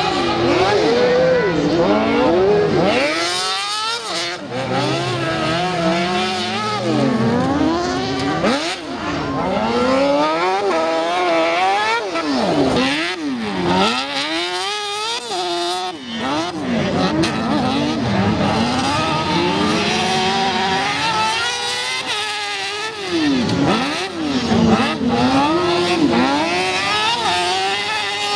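Yamaha R6 inline-four motorcycle engine in an off-road racing buggy, revving hard: the pitch climbs and drops again and again, with sudden falls and fresh climbs every few seconds.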